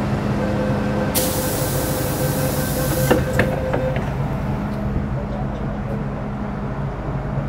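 Interior of a Metro Cammell M-Train EMU with GEC GTO chopper traction equipment: steady low hum and a steady whine from the traction gear, with a burst of compressed-air hiss from just after a second in until about three seconds, ending abruptly, and a couple of clicks near its end.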